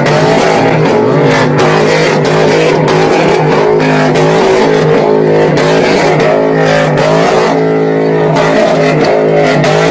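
Loud truck engine and exhaust running at raised revs, its pitch dipping and rising a few times.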